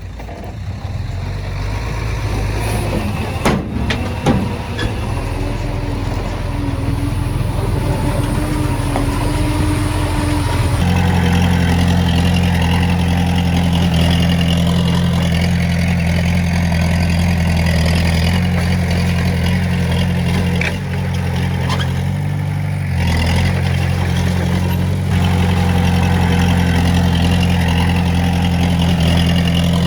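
Diesel engine of heavy earthmoving machinery running, with a few sharp knocks in the first few seconds. About a third of the way in it settles into a steady, even drone, which falters briefly about two-thirds of the way through.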